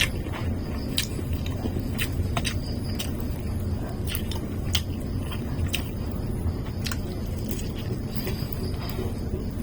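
Close-up sounds of a person eating fried chicken with chop suey: chewing and biting, with sharp crunchy clicks every second or so over a steady low hum.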